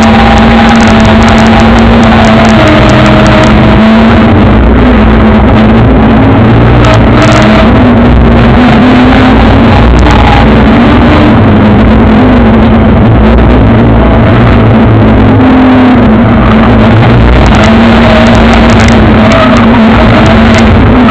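BMW E30's engine running hard, heard from inside the car, very loud throughout with the revs rising and falling as the car is driven up a hillclimb course.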